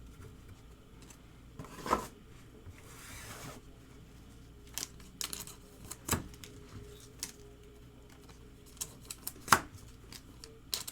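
Trading cards and foil packs being handled on a table: scattered light clicks and taps, with a short rustle about three seconds in.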